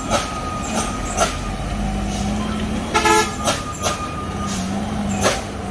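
Heavy vehicle engine running steadily, with one short horn honk about three seconds in and several sharp knocks scattered through.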